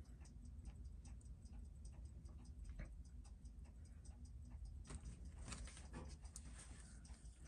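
Seiko 6105 automatic watch movement ticking steadily at about six beats a second, a freshly serviced movement running with steady amplitude. A brief rustle comes about two-thirds of the way in.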